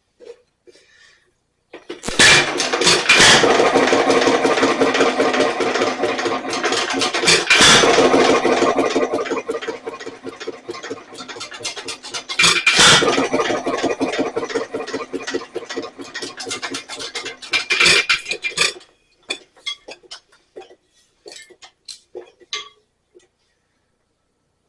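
Nelson Little Jumbo 1½ HP hit-and-miss engine turning over and running briefly, a dense mechanical clatter with a few louder sharp strokes. It then dies out, slowing to a stop with scattered fading clicks. The owner blames the trouble on a lot of play in the governor.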